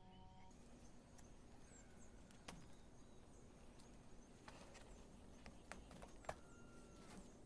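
Near silence: a faint background with a few scattered sharp clicks and ticks, the loudest about six seconds in.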